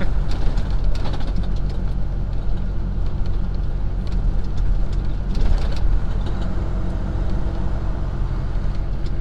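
Semi truck's diesel engine running at low city speed, a steady low drone heard from inside the cab.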